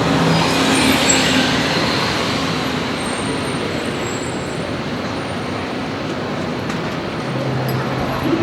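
Road traffic on a busy city street: a steady wash of passing vehicles with low engine hum.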